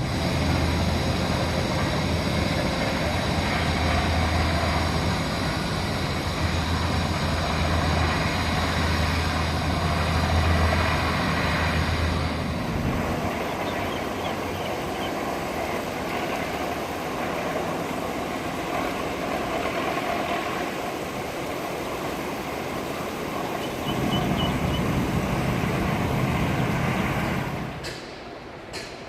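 Ferry engines running with a steady low hum and a high whine, easing back about twelve seconds in, picking up again briefly near the end and then dropping off, as the boat manoeuvres at the dock.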